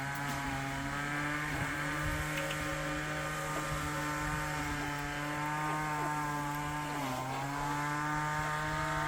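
A small engine running steadily at a constant pitch, which sags briefly about seven seconds in and then recovers.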